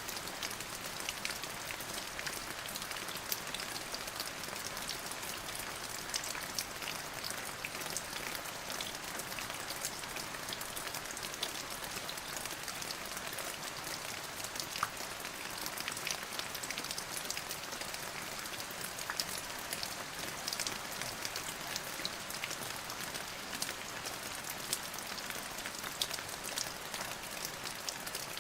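Steady rain falling on a surface, an even hiss made up of many small drop ticks, with no thunder.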